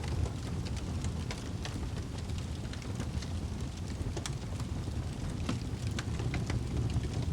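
Wood fire crackling in a fireplace: a steady low rumble of flames with frequent sharp pops and crackles scattered irregularly throughout.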